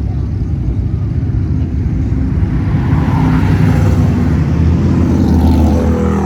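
A classic car's engine rumbling low as the car drives past, growing louder toward the end.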